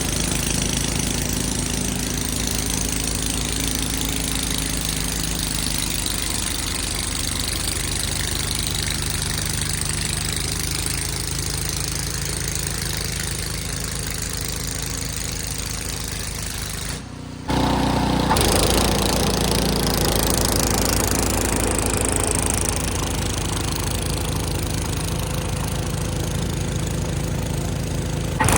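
Ariens snow blower engine running steadily. About two-thirds of the way through it drops out for a moment, then comes back a little louder.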